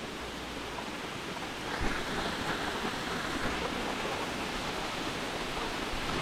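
Steady outdoor rushing noise, growing a little louder about two seconds in.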